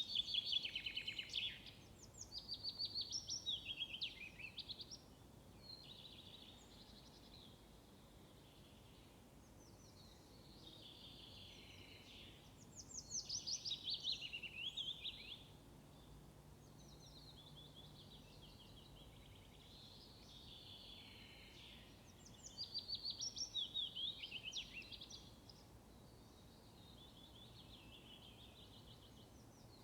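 Songbirds singing short, fast trilled phrases every few seconds over faint steady background noise.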